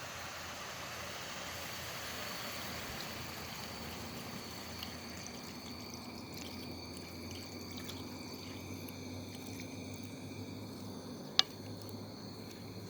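A steady watery hiss that eases after about five seconds, with one sharp click near the end.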